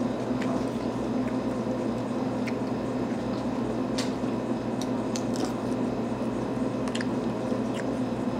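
Chewing and sucking on a baked chicken bone: wet mouth noises with scattered small clicks. Underneath runs a steady low room hum.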